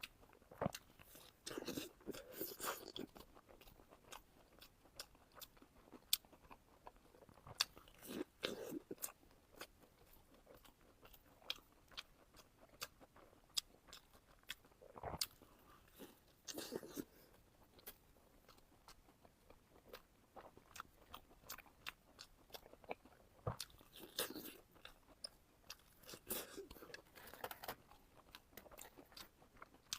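Close-miked eating of crunchy food: sharp crisp bites and wet chewing. Bursts of chewing come every several seconds, with scattered crackles between them.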